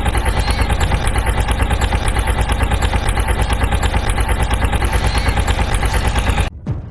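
Engine running at a steady idle, a rapid even chug of about five beats a second, then cutting off suddenly near the end.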